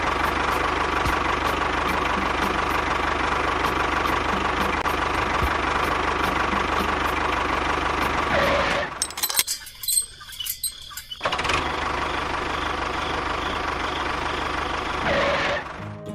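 A small motor running steadily, stopping for about two seconds partway through, then running again before cutting off near the end.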